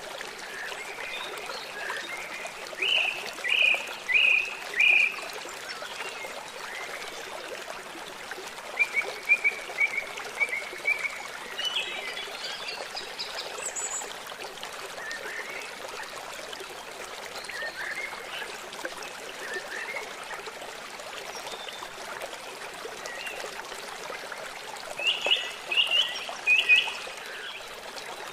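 Small birds calling in short clusters of quick chirping notes over the steady rush of running water. One run of notes comes a few seconds in, more scattered chirps follow from about nine to twelve seconds, and another loud burst comes near the end.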